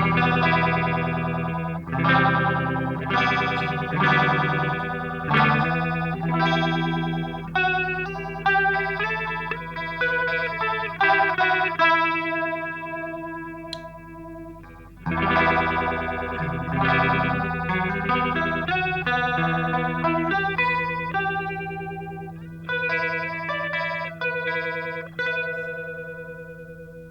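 Electric guitar played through a Madbean Nom Nom phaser pedal, a Phase 90-style phaser, strumming chords and picking single notes. It plays in two phrases with a short break about halfway through.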